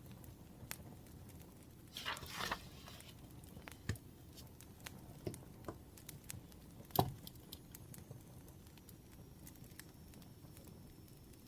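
Wood fire crackling: sparse pops and snaps, with a brief rustling hiss about two seconds in and a sharper crack about seven seconds in.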